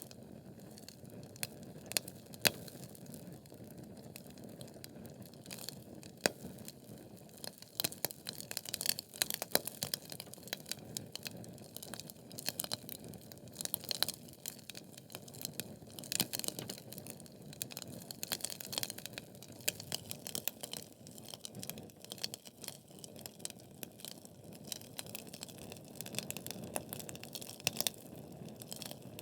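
Wood fire of burning logs crackling, with frequent sharp pops and snaps over a steady low hiss of flame; the pops come thickest in the middle stretch.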